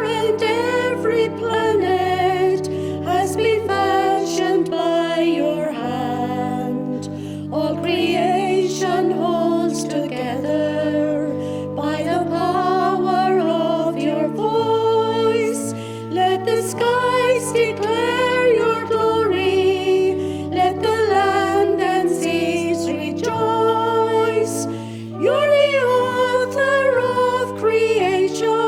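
A hymn sung with vibrato over an instrumental accompaniment of long, held low chords.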